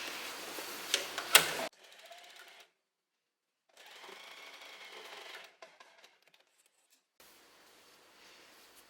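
A few sharp clicks and handling noise, then a household sewing machine running in two brief, quiet stretches with dead silence between them, sewing a zigzag test seam on scrap jersey with the thread tension lowered to 3.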